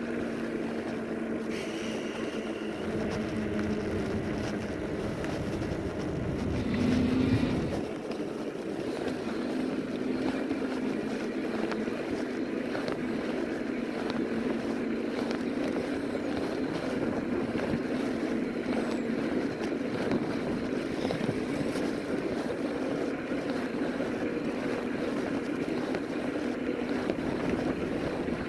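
Ride noise from an electric fat-tire bike under way: a steady hum from the motor and fat tyres on the road, with wind on the microphone. A brief louder swell comes about seven seconds in.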